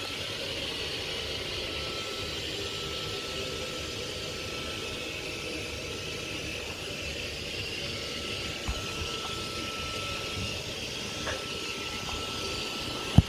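Hoover vacuum cleaner running steadily: a hissing motor whir with a thin whine over it. There is a faint knock partway through and a sharp, louder knock near the end.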